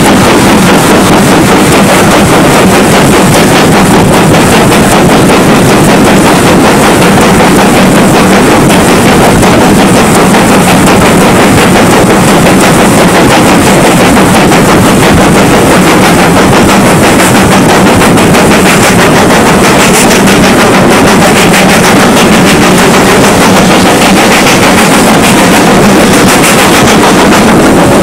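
A steam train running, recorded so loud that the sound is overloaded into a dense, rapid crackle.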